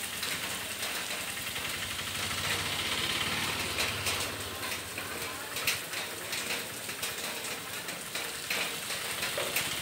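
Heavy rain falling in a steady hiss, with scattered sharp taps of individual drops striking close by.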